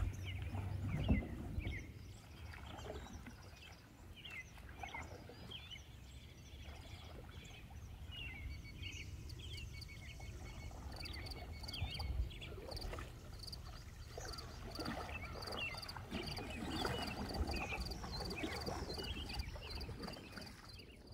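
Quiet pond-side ambience: a canoe paddle dipping and stroking in the water, loudest near the start as the canoe pulls away from the bank, over scattered high chirping calls and a low rumble. A faint, steady high trill joins in about halfway through.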